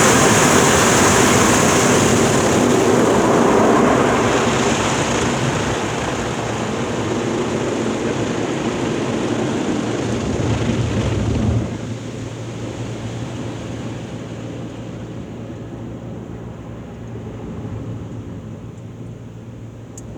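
Automatic soft-touch car wash equipment running: a loud steady rush of water spray or air. It drops suddenly about twelve seconds in to a quieter steady hum that keeps fading.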